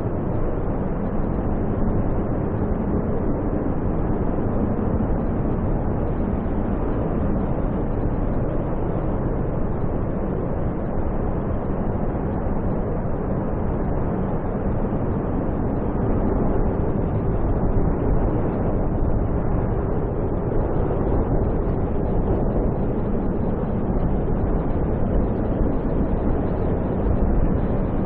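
Snowstorm wind roaring steadily, a deep, even rush with gentle swells and no breaks.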